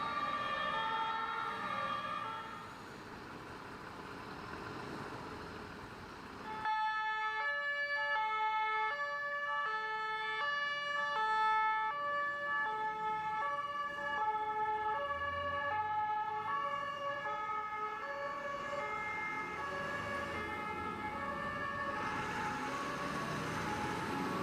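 Two-tone German emergency-vehicle siren (Martinshorn) sounding, steadily alternating between a low and a high note a fourth apart. It sets in abruptly about six seconds in.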